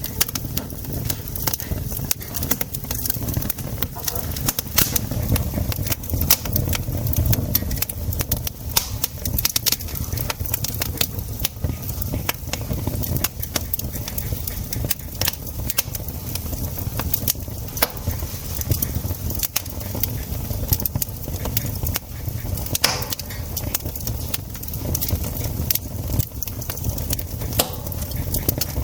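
Campfire wood crackling, with frequent irregular sharp pops and snaps over a low steady rumble.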